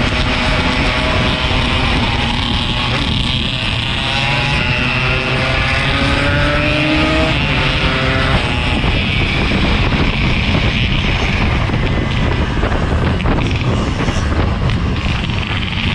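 Yamaha RX-King 135's single-cylinder two-stroke engine running under way, over steady wind and road noise. It rises in pitch as it accelerates a couple of seconds in, and runs on steadily after that.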